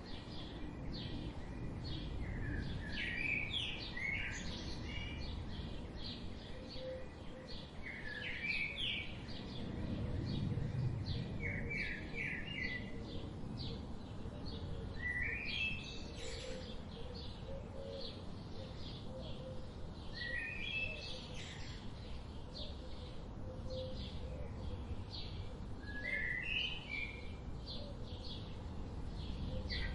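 Wild birds singing: one bird repeats a short, bright chirping phrase every few seconds over many fainter, quicker chirps, with a low, steady background rumble.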